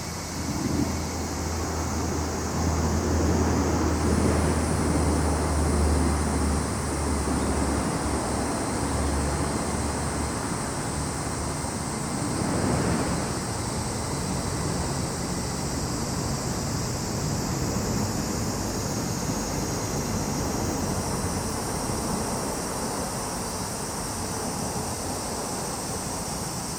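A vehicle passing on a nearby road: a low rumble that is heaviest in the first ten seconds, with another swell of road noise about halfway through. Behind it, a steady high-pitched chorus of summer insects keeps going.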